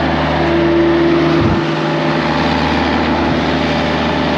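A motor vehicle engine running steadily at idle, a constant low drone under a noisy hiss, with a brief change in the low hum about one and a half seconds in.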